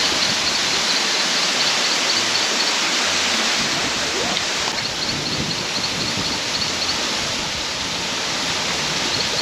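Steady rush of falling water from Maracas Waterfall, a tall waterfall, with faint high chirps repeating over it.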